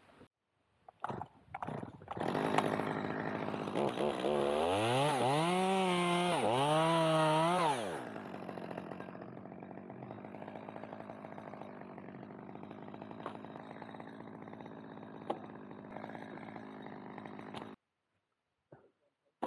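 Two-stroke chainsaw running at high revs, its pitch rising and falling twice, then settling to a quieter, steadier run; the sound cuts off suddenly near the end.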